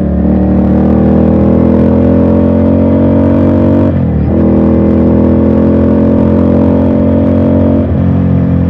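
Ducati Scrambler's L-twin engine accelerating hard, its note climbing steadily and dropping sharply at two upshifts, about four seconds apart.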